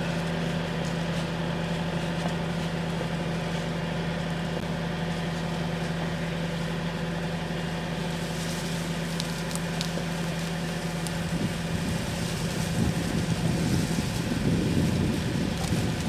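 Tractor engine running at a steady speed with a constant hum. About eleven seconds in, a rough, uneven low rumble joins it and grows louder.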